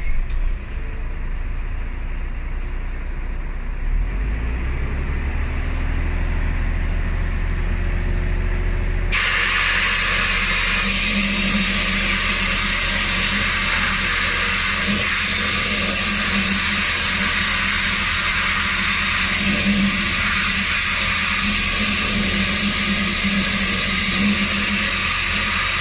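Volvo B9R bus's diesel engine idling. About nine seconds in, a loud, steady hiss of rushing air starts abruptly and carries on over the engine.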